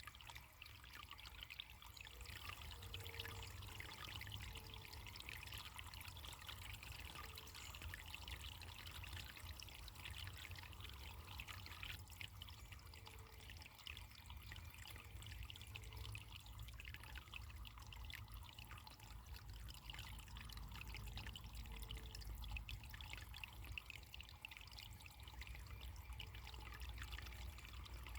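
Faint running water trickling steadily, with a low rumble underneath and short low-pitched blips every second or two.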